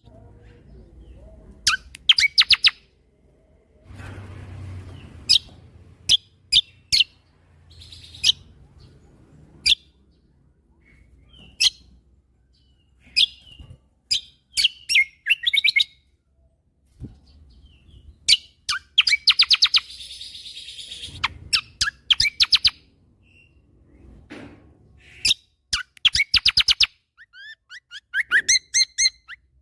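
Kecial kombo (cucak kombo) singing in short, loud bursts of rapid high chirps and trills, each phrase cut off by a brief pause.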